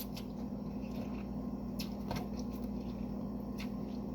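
Steady low hum of background noise with a few faint, short clicks scattered through it.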